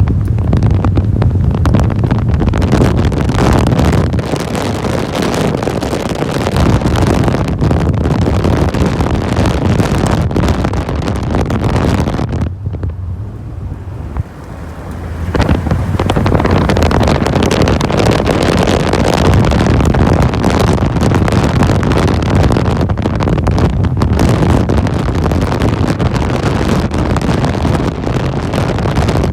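Heavy wind buffeting the microphone over the running and tyre noise of a Mahindra Roxor driving on a dirt road, open to the air with no windshield. The wind eases for a few seconds about halfway through, then comes back.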